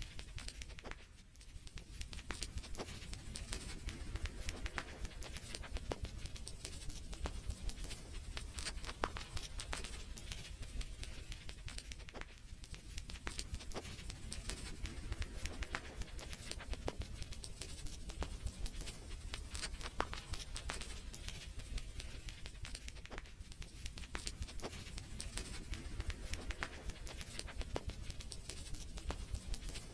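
Wood fire burning in a fireplace, crackling with frequent irregular sharp pops over a low steady rumble.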